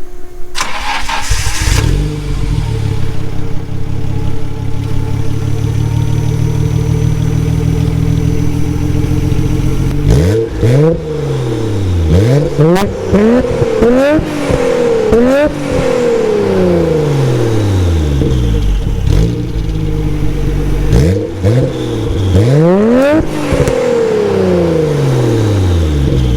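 Nissan Skyline R32 GT-R's RB26DETT twin-turbo straight-six, on an HKS Silent Hi-Power cat-back exhaust with a Mines equal-length front pipe, catching about a second in and settling to a steady idle. From about ten seconds it is blipped in a run of quick free revs, each rising and falling back. After a short idle, a second set of revs follows, the highest one near the end, before it drops back to idle.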